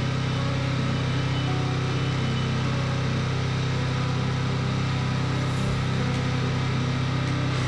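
65-horsepower tractor engine running steadily while it carries a heavy load on the front end.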